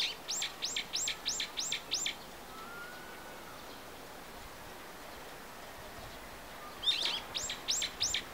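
A songbird singing two short phrases, each a quick run of six or seven sharp, high notes falling in pitch, about four a second. One phrase comes at the start and one near the end.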